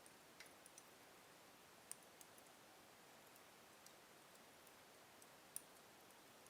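Wood fire burning slowly in a fireplace, faint and soft: sparse, irregular crackles and small pops over a low hiss, the sharpest pop about two seconds before the end.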